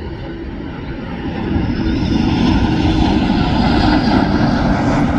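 Jet engines of an airliner passing close by: a rushing roar with a steady low hum underneath, growing louder about a second and a half in.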